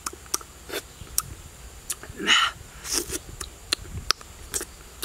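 A person eating honeycomb and dragon fruit close to the microphone: wet lip smacks and chewing clicks at an uneven pace, with a short breathy sound about two seconds in.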